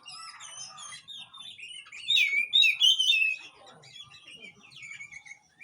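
Oriental magpie-robin (kacer) song: a run of quick, varied whistles and chirps, loudest in a burst of song about two seconds in, with quieter twittering around it.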